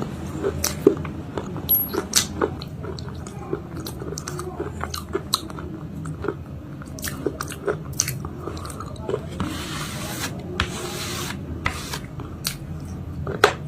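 Close-up biting and chewing of a homemade cake of slate-pencil paste with red and white khadi chalk: many sharp crunches and cracks, and a short hiss about ten seconds in.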